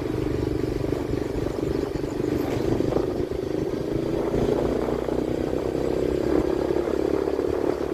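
Train running, a steady rumble and hum.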